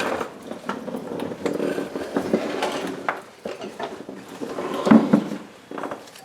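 Metal timing chain and sprocket clinking and rattling as they are handled and fitted on an engine, with a louder knock about five seconds in.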